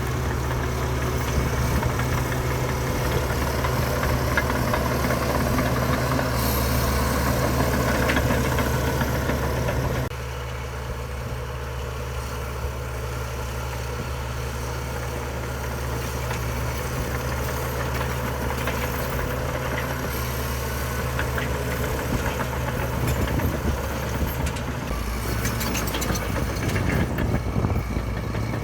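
Diesel engine of heavy earthmoving machinery running steadily with a low, even drone. The sound drops abruptly about ten seconds in and changes again near the end.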